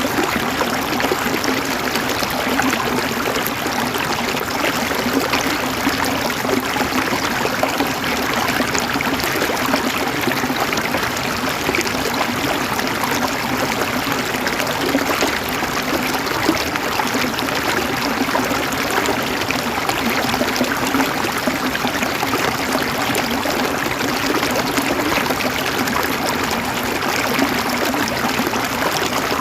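Flowing water, a steady unbroken trickling and splashing like a small stream.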